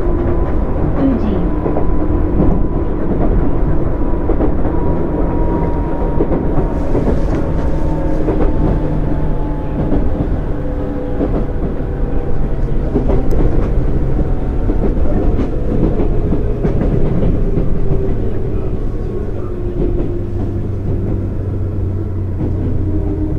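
JR 205 series 0 electric train with field-added excitation control running, heard on board: its motor and gear whine falls slowly in pitch as the train slows, over a steady rumble of wheels on rail with occasional clicks.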